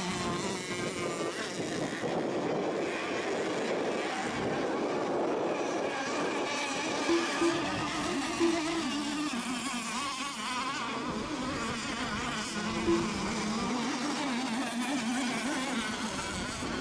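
Several radio-controlled racing boats' small engines buzzing at high pitch as they race the course, their overlapping whines wavering up and down. A few short louder blips stand out around the middle and once more later on.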